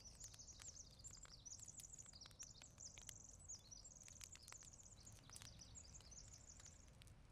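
Faint songbird calls: a string of high chirps and quick trills, one after another, stopping just before the end.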